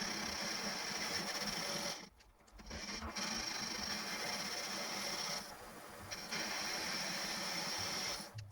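A machine running with a steady rubbing, grinding noise and a high whine. It breaks off briefly twice and stops just before the end.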